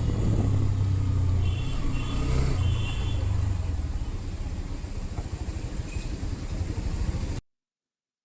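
Hero Xtreme 125R's single-cylinder engine running as the motorcycle is ridden, a steady low rumble that cuts off abruptly near the end.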